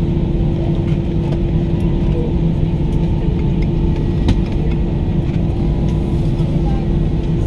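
Steady cabin noise inside an Airbus A320 on the ground before takeoff: a low rumble of the engines and cabin air with a constant hum. A faint click about four seconds in.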